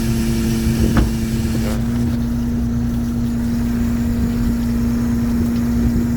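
A fishing boat's engine running steadily, with a strong even hum whose pitch steps up slightly about two seconds in. There is a brief knock about a second in.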